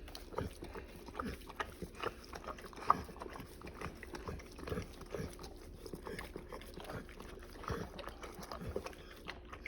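Short, irregular dog sounds from a whelping Cane Corso and her newborn litter, with one sharper sound about three seconds in.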